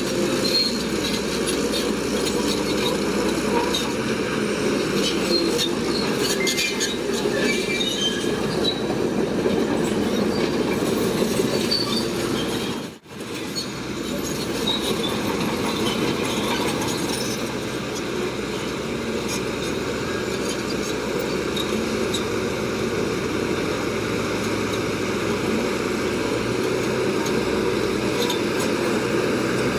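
Shantui crawler bulldozer at work: the diesel engine runs steadily under load, with scattered high metallic squeaks from the running gear. The sound cuts out for a moment about halfway through, then carries on as before.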